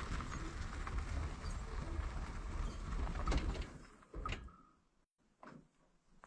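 Low, steady rumble of a vehicle on the move that dies away about four seconds in, followed by a single sharp knock.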